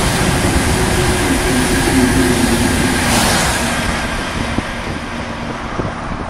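Eurostar Class 373 high-speed train passing and moving away: a steady rush of wheels on rail and air, with a low hum that drops in pitch about two seconds in. The sound fades a little as the train recedes.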